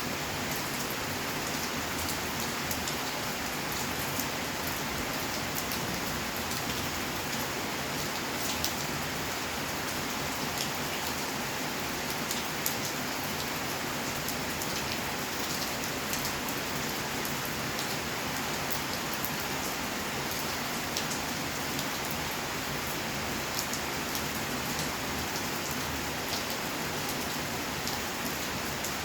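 Steady rain falling on surfaces: an even hiss with many small, sharp drop ticks scattered through it.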